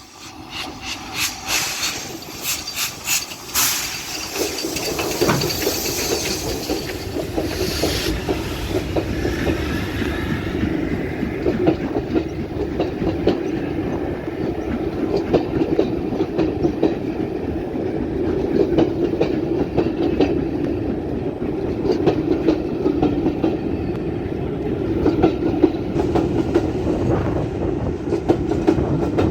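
A train running past on the track: a run of sharp clicks from the wheels over the rail joints in the first few seconds, then a steady noise from wheels and coaches rolling by.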